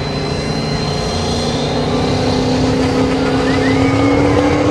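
Diesel 4x4 pickup engine running hard at high revs, its pitch climbing slowly and growing louder, with a thin high whistle over it.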